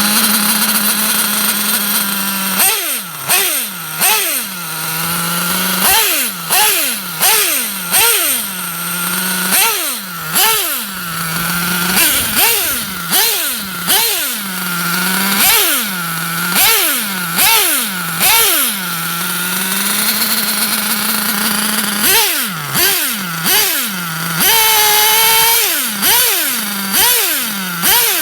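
Track Star .28 nitro engine of a Kyosho Inferno MP7.5 1/8-scale buggy idling, then blipped repeatedly, each rev rising sharply and falling back about once a second. It settles to idle for a couple of seconds, then more blips follow, with one rev held briefly at higher pitch.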